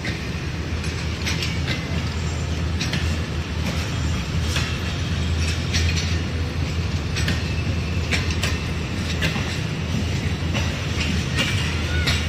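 Diesel-hauled Pak Business Express passenger train moving through the station: a steady low locomotive engine drone, with sharp clicks of the wheels over rail joints about once a second.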